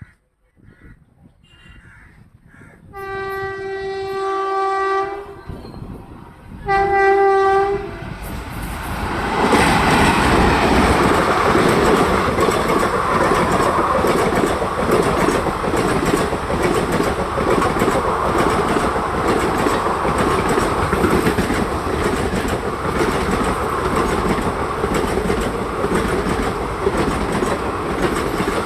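WAP-7 electric locomotive's horn sounding twice, a long blast of about two seconds and then a shorter one of about a second. Then an express passenger train rushes past at high speed: a steady loud roar of wheels on rail, with the clickety-clack of the coaches.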